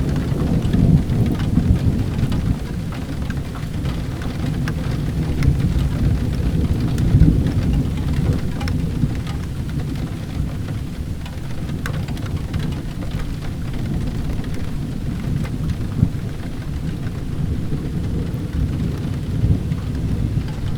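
Steady heavy rain under a continuous low rumble of thunder, with scattered sharp crackles.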